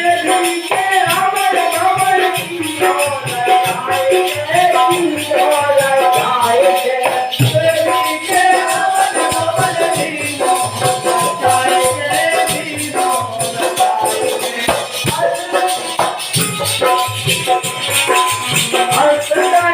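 Indian devotional kirtan song: a melodic line that sounds like singing, over steady rattling hand percussion keeping a quick, even rhythm.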